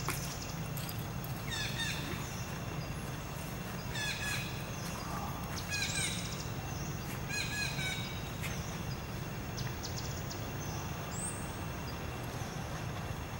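Birds chirping: several short runs of quick repeated chirps, mostly in the first half, over a steady low hum of outdoor background noise.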